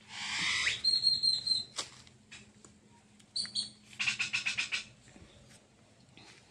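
A bird calling loudly: a rasping call at the start, then a quick string of sharp high notes, and a rapid rattle of about eight notes about four seconds in.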